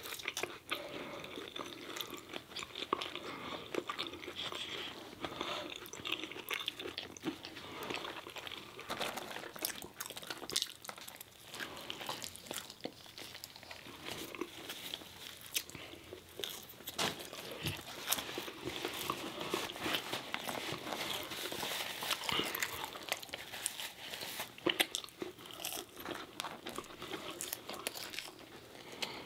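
Two people chewing and biting into McDonald's food: McChicken sandwiches, french fries and chicken nuggets. The chewing comes as many short clicks and crunches.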